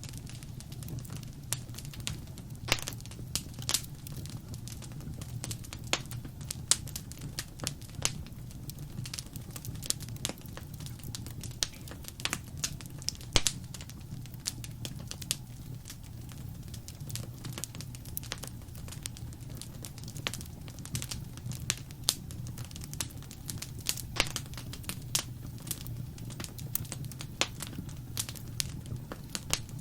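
Wood fire in a fireplace crackling: irregular sharp pops and snaps over a steady low rumble of flame.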